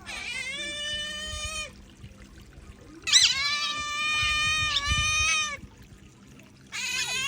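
Otters giving three long, high squealing begging calls, each held for one to two and a half seconds at a fairly steady pitch, with short pauses between them. The second call opens with a sharp upward swoop.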